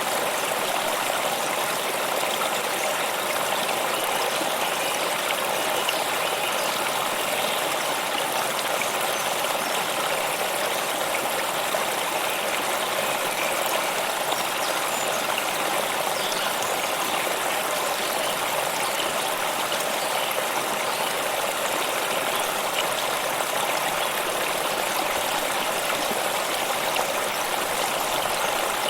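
A stream flowing steadily, with an even, unbroken rush of water.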